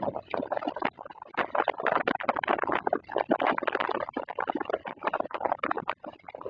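Summer-storm rain hitting a hard surface: a dense, irregular pattering of many sharp drop impacts.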